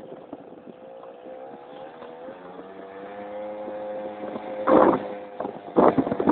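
Keeway Hurricane scooter's small two-stroke engine running under way, its pitch rising for a couple of seconds as it accelerates and then holding steady. Two loud bursts of rushing noise cut across it in the last seconds.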